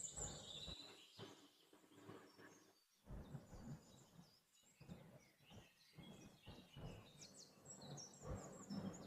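Near silence, with a few faint scattered taps and short high chirps.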